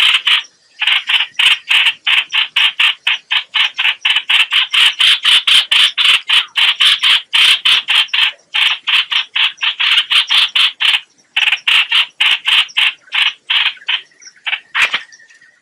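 Recorded lure call of the hoạch hoạch bird: a fast, rasping chatter of repeated harsh notes, about four to five a second, in long runs broken by short pauses. Near the end the runs thin out, with a faint thin whistle and a sharp click.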